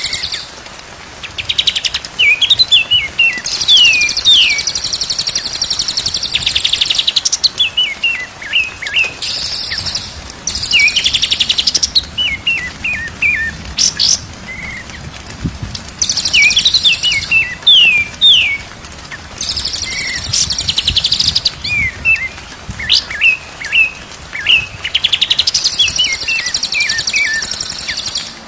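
White-rumped shama song: quick runs of short, downward-sliding whistled notes alternating with high, buzzy trills a couple of seconds long, repeated over and over.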